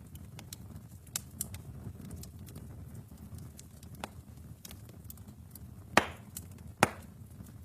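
Wood fire in a fireplace crackling over a low, steady rumble, with scattered small clicks and two loud pops near the end.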